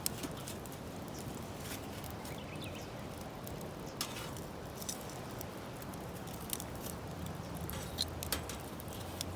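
Firewood bonfire crackling, with scattered sharp pops over a steady hiss.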